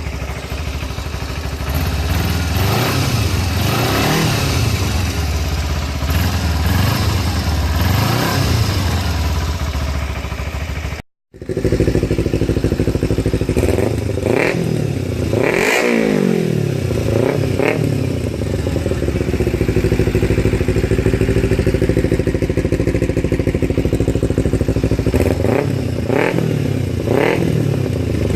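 Kawasaki Ninja 250R parallel-twin engine through an aftermarket Musarri Street Series GP exhaust, idling and revved in repeated short blips. It cuts out briefly about eleven seconds in, then idles with one bigger rev near the middle and a few quick blips near the end.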